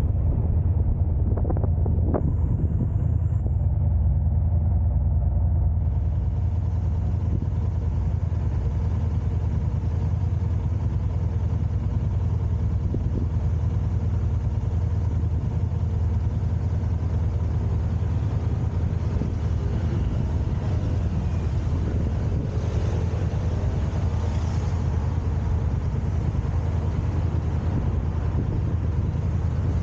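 Car driving in traffic: steady low road and engine rumble with some wind noise on the microphone.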